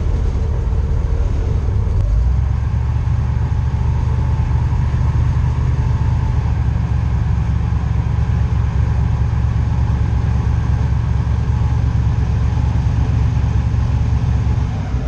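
Airboat engine and air propeller running steadily under way, a loud low rumble whose note shifts about two seconds in.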